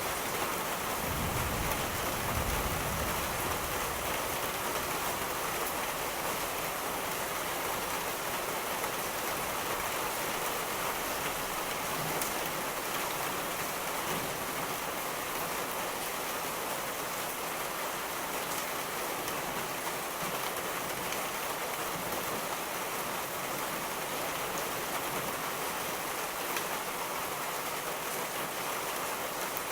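Steady, continuous rainfall. A low rumble of distant thunder comes about a second in and fades within a couple of seconds.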